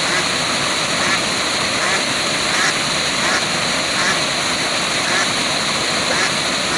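Steady rushing of a waterfall, with faint short sounds recurring about every second over it.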